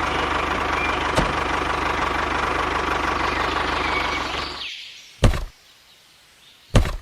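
A motor running steadily with a fine, even knock, which fades and drops out about four and a half seconds in. Two short sharp knocks follow, about a second and a half apart.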